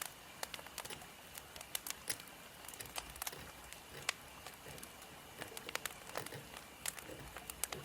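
Wood fire crackling: a steady hiss with many irregular sharp pops and snaps of burning firewood.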